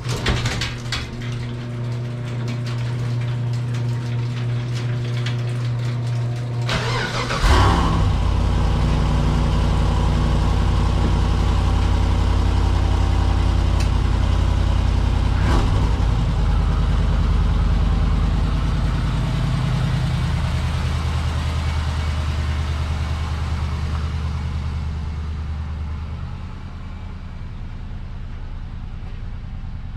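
GM LS V8 swapped into a C3 Corvette firing up on a cold start and settling into a steady fast idle. About seven and a half seconds in it gets louder with a deeper note, then eases down and quietens near the end.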